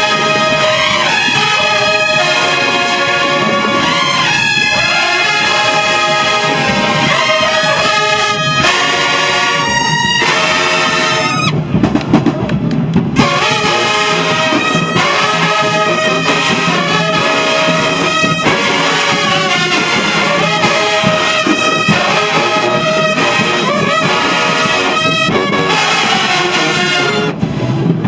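A marching band's brass section plays a loud, steady tune, with trumpets and trombones holding sustained notes.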